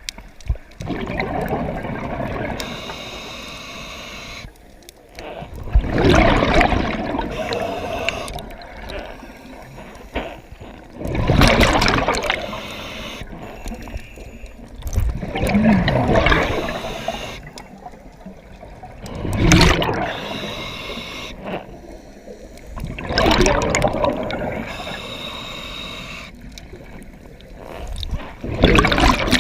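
Scuba exhaust bubbles rushing and gurgling underwater, in loud surges every four to five seconds with quieter water noise between them: a diver's breathing through a regulator.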